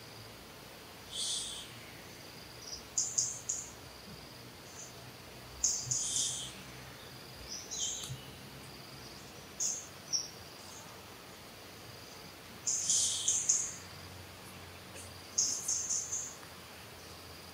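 Birds in the surrounding trees giving short, high-pitched chirps in quick clusters, repeating every second or two, over a faint steady background hiss.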